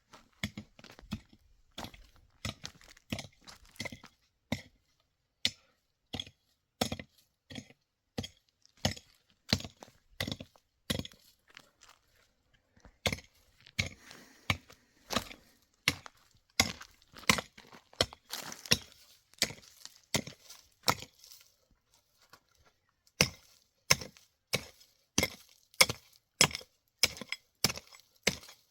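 Repeated chopping blows on wood, about one to two a second, with short pauses between runs of strikes.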